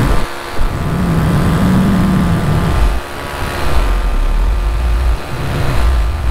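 Minari F1 paramotor engine running steadily in flight, its propeller droning. Heavy low wind rumble on the microphone comes and goes.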